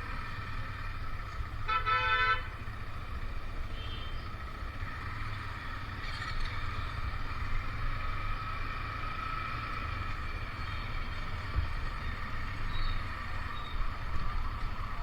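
A vehicle horn honks once briefly, about two seconds in, over steady engine and road noise from the moving motorcycle.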